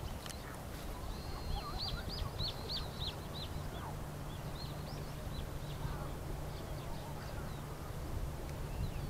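A bird chirping in a quick run of short high notes through the middle, with a few more near the end, over a steady low rumble.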